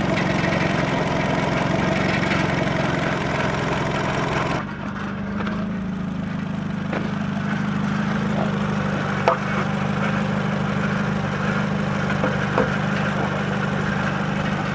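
2004 Nissan Sentra idling in drive at a standstill, heard from beside the exhaust, with a metallic rattle from a loose exhaust heat shield vibrating against the pipe; the shield's clamp is loose. The higher rattling thins out about four and a half seconds in, and a couple of sharp taps come later.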